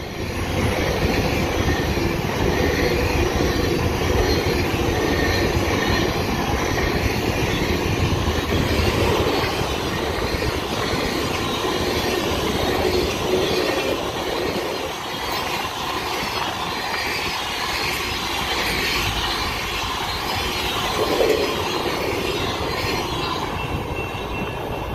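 Union Pacific passenger train passing close by: its cars' steel wheels roll over the rails in a steady, continuous rumble that eases slightly as the last car goes by near the end.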